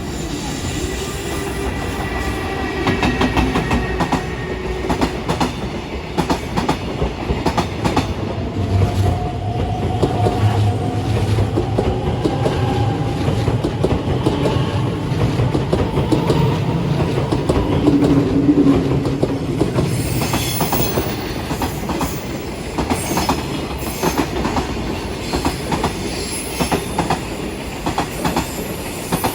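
Train running past on the main line, its wheels clattering steadily over the rail joints, loudest about two-thirds of the way through.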